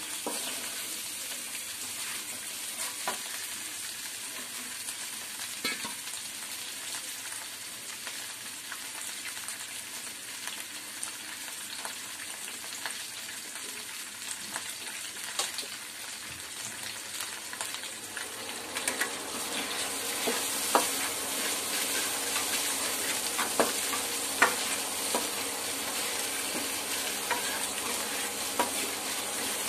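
Boiled taro root pieces sizzling in oil in a kadai, with a spatula clicking and scraping against the pan now and then. The sizzle gets louder about nineteen seconds in.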